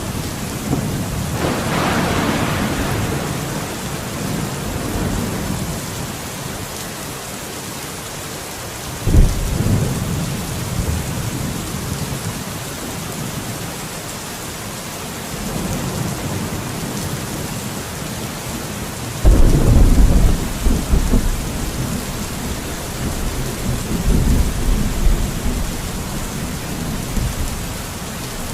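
Steady rain hissing, with deep low rumbles swelling up several times, the loudest about two-thirds of the way through.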